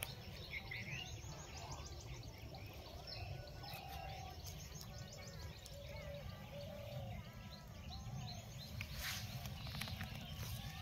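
Birds chirping, many short calls one after another, over a steady low rumble.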